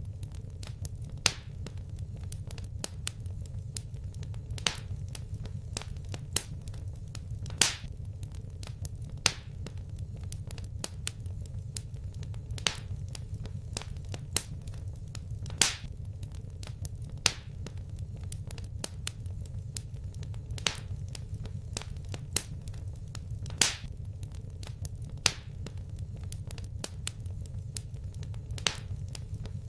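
Fireplace fire crackling: frequent small sharp pops and snaps, with a louder pop every second or two, over a steady low rumble.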